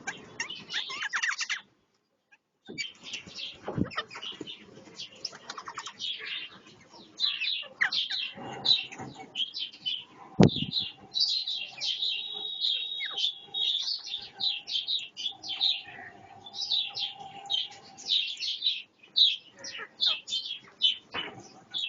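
Several parrots chirping and chattering rapidly in quick bursts of short high calls, the sound of a squabble between pet parrots. A brief dropout about two seconds in and one sharp click about ten seconds in.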